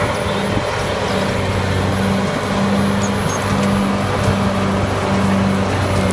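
Large crawler bulldozer's diesel engine working under load as the blade pushes rubble: a steady, deep drone that swells and eases slightly.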